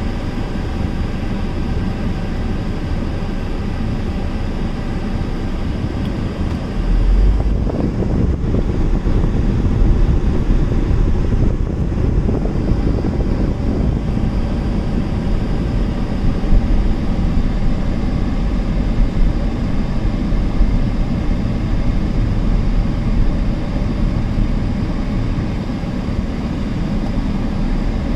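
Steady driving noise inside the cabin of a 2-litre diesel Skoda at speed: engine, tyre and wind noise, with the air-conditioning fan blowing on its maximum setting. A deeper low rumble comes in about seven seconds in and stays.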